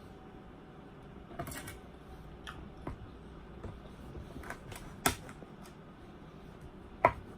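Scattered light clicks and taps, a few small ones and two sharper knocks about five and seven seconds in.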